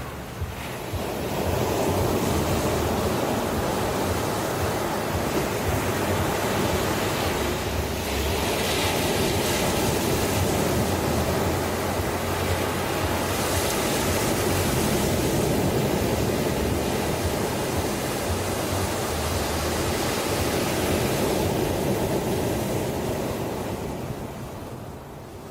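Ocean waves breaking and washing ashore: a continuous rush of surf that builds about a second in, swells and eases in slow surges, and ebbs near the end.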